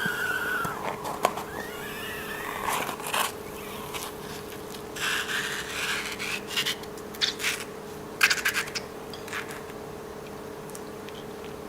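Rubber balloons squeaking and rubbing, with crackly scraping handling sounds in the middle, over a steady low hum.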